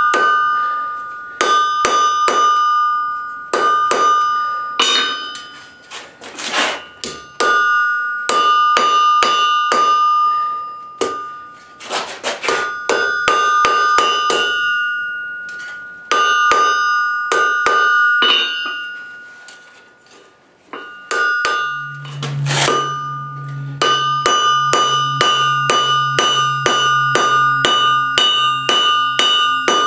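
Hand hammer striking steel on an anvil in quick runs of blows, with a clear bright ring after each strike and short pauses between runs. A steady low hum of a motor joins in about two-thirds of the way through.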